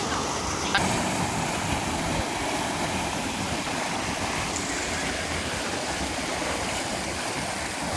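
Steady rush of flowing water from a stream or falls.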